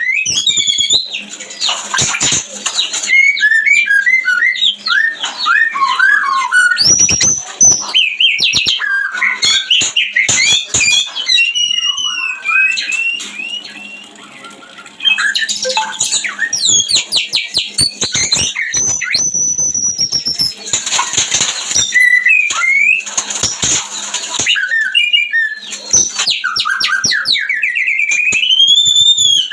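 White-rumped shama (murai batu) singing in breeding condition: a loud, varied run of whistles, rising and falling sweeps and harsh rasping phrases, with a short lull about halfway through.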